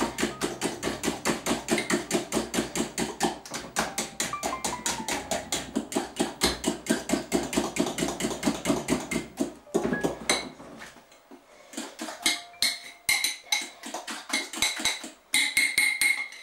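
Sponge pudding mixture being beaten by hand in a mixing bowl: a utensil knocks against the bowl in fast, even strokes at about five a second. The beating stops about ten seconds in, leaving a few scattered clinks and taps.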